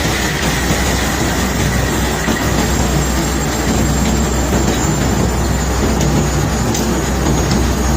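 Cargo-unloading machinery running: a steady low rumble under a continuous rattling, grinding noise.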